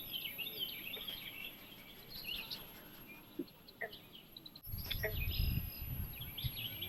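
A dense chorus of small birds chirping and twittering. About two-thirds of the way in, a low rumbling noise comes in underneath the birdsong.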